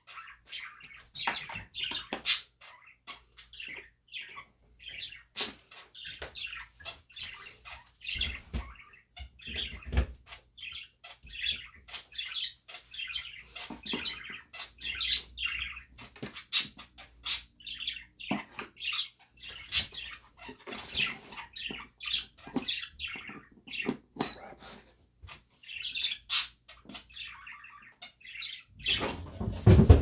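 A small bird chirping and chattering in short, irregular calls, with scattered knocks and thumps of handling and a louder thump near the end.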